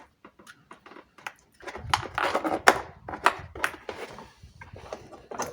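Hands handling a car door's plastic trim: a run of sharp clicks and knocks, with a patch of scraping and rustling about two seconds in.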